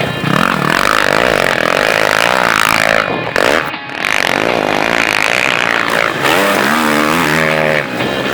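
Motocross dirt bikes running on the track, engines revving up and down as they ride through practice, with a brief drop about three and a half seconds in.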